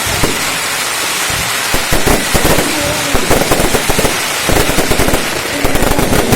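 Fireworks display: a dense, irregular crackle of many rapid bangs and pops, like strings of firecrackers going off continuously.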